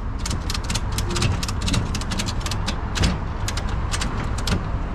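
Ratchet tie-down strap being worked, giving a quick irregular run of sharp metallic clicks, over a steady low rumble.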